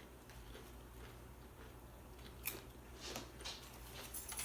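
Faint chewing of chips with salsa, broken by a few short, sharp crunches about two and a half, three and four seconds in.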